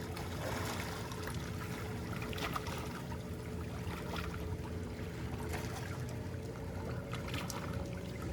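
Small waves lapping and trickling over a rocky shore, with irregular small splashes. Wind rumbles on the microphone, and a faint steady drone sits underneath.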